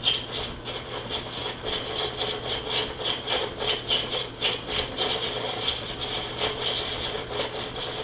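Metal lathe running, its gears clattering: rapid, irregular metallic clicks that ring, over a steady motor hum.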